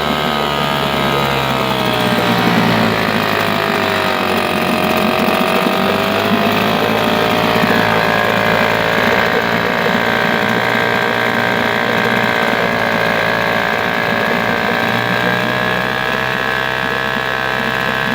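British Seagull 102 4 hp two-stroke outboard motor running steadily on its first run after a year laid up, its speed sagging a few seconds in and picking back up, then wavering gently again.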